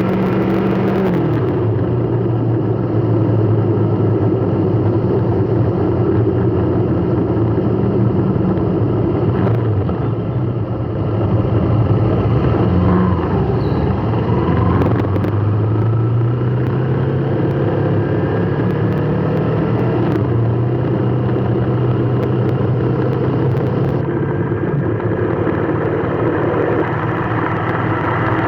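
Motor vehicle engine running steadily with road noise, its pitch shifting now and then as it speeds up and slows down.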